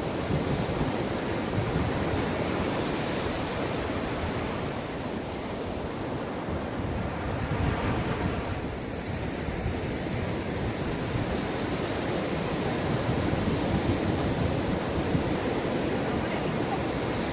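Sea waves breaking and washing up the shore in a steady rush, with one wave swelling a little louder about halfway through.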